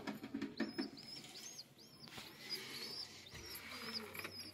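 A bird chirping: short high chirps repeated about twice a second.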